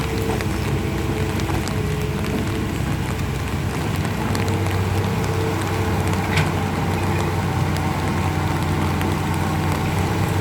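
Large diesel engine of heavy machinery running steadily, with rain falling; a brief sharp knock about six seconds in.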